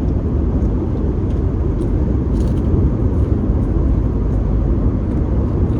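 Crunching of a bite of breaded fried chicken tender, faint and brief about two seconds in, over a steady low rumble.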